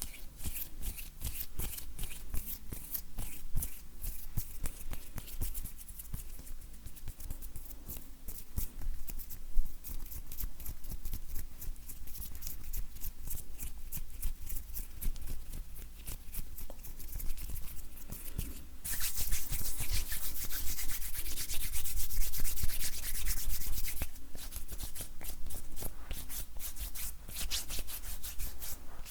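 Dry bare hands rubbing and brushing together close to the microphone: crisp skin-on-skin rustling with many small clicks. About two-thirds of the way in, a louder stretch of brisk, continuous palm rubbing lasts about five seconds.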